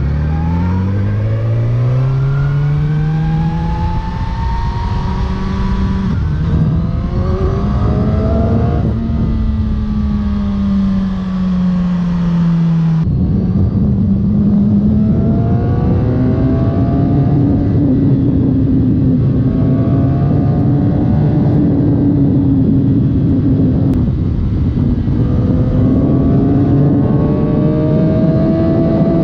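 Suzuki GSX-R1000 K7 inline-four engine running through its stock factory exhaust under way. The revs climb over the first few seconds and then ease slightly. The note changes abruptly about 13 seconds in and then holds nearly steady, with small rises and falls.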